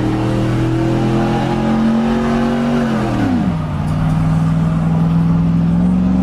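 A car engine held at steady revs, then the revs fall about three seconds in and settle at a lower, steady pitch.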